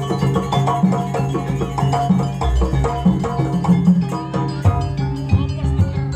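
Jaranan accompaniment music: a gamelan-style ensemble of tuned mallet percussion and drums playing a fast, steady rhythmic pattern.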